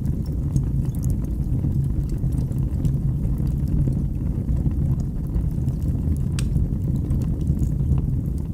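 Wood fire burning in a fireplace: a steady low rumble of flames with scattered sharp crackles and pops, one a little stronger about six seconds in.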